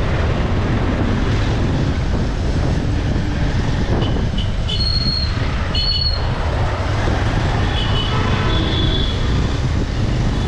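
Steady road and wind rumble from a motorcycle on the move, with a few short high-pitched squeals or chirps about halfway through and again near the end.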